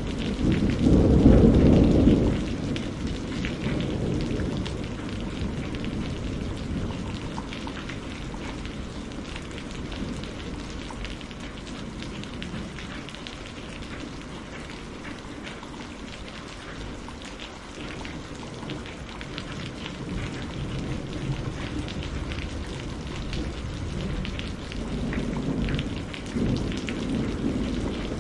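Steady rainfall with rolling thunder: a loud low rumble about a second in that fades over a couple of seconds, and another rumble building near the end.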